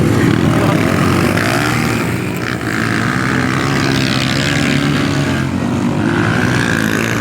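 Racing motorcycle engines running hard, their pitch rising and falling as they rev.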